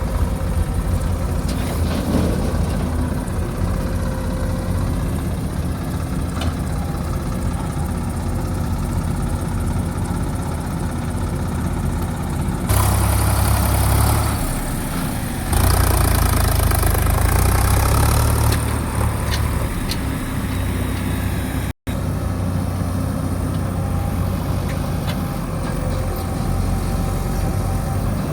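JCB machine's diesel engine running steadily, revving up twice for a few seconds each around the middle. The sound cuts out for an instant about two-thirds of the way through.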